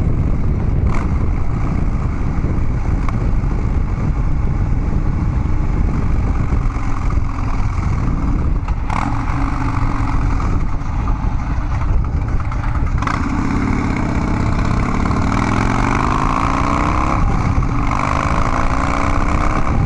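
Harley-Davidson Dyna Street Bob's V-twin running through Vance & Hines Big Radius 2-into-2 exhaust pipes while riding, its pitch rising about two-thirds of the way through as the bike accelerates.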